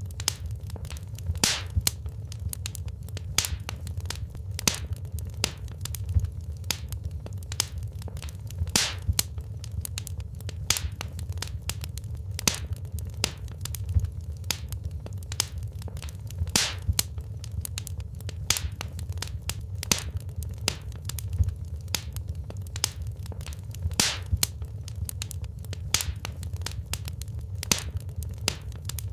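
Wood fire in a fireplace crackling, with frequent irregular sharp pops and snaps over a low, steady rumble.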